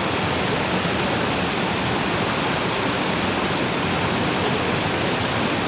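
Mountain stream water rushing, a steady, unbroken noise with no change in level.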